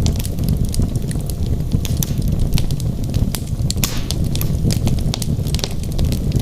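Wood fire burning in a fireplace: a steady low rumble of flame with many sharp, irregular crackles and pops from the logs, a brief cluster of louder pops a little after the middle.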